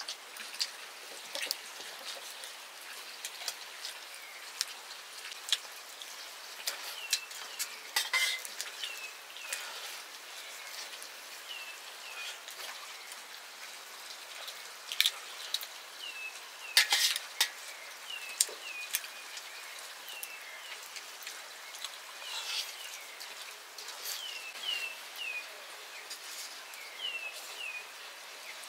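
Egg noodles frying in a pan with a steady sizzle, while a metal utensil stirs and clicks against the pan now and then, hardest about 8 and 17 seconds in. Short high falling chirps recur throughout.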